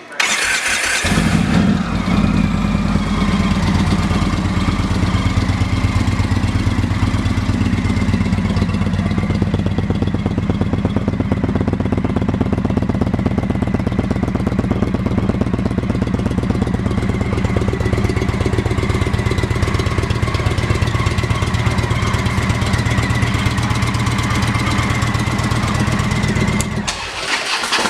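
Indian Chief Vintage's 111 cubic inch Thunderstroke V-twin, fitted with an aftermarket exhaust, starts about a second in and idles steadily with an even, loping beat from the pipes. It shuts off near the end.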